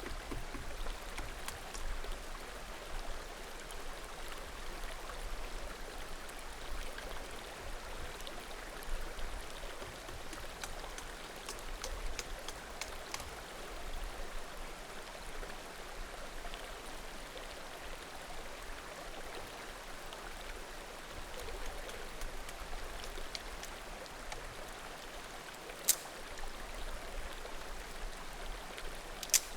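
Small mountain creek babbling steadily, with faint crackles of a bonfire and two sharp pops of burning firewood near the end.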